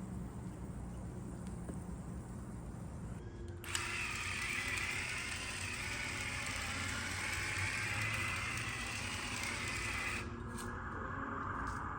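A small electric motor switches on with a click about four seconds in and runs with a wavering whine. Its pitch drops about ten seconds in.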